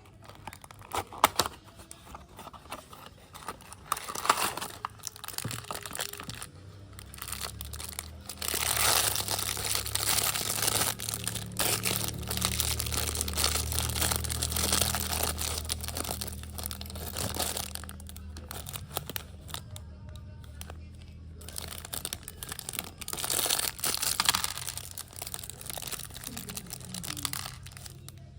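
Plastic crinkling and rustling with scattered small clicks, typical of Lego pieces being handled and plastic parts bags being rummaged through. There are two long spells of crinkling, the louder one in the middle and a shorter one later on.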